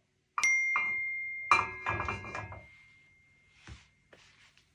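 A bright chime struck about half a second in, its clear high tone ringing on and slowly fading, with a second jangling ring about a second later.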